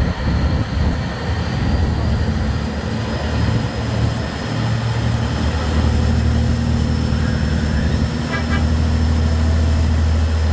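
Boat engine running with a steady low drone that grows stronger about halfway through, over a steady rushing noise.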